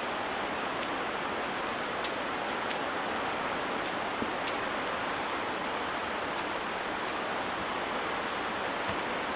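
Steady rain with a constant hiss and scattered faint ticks of single drops.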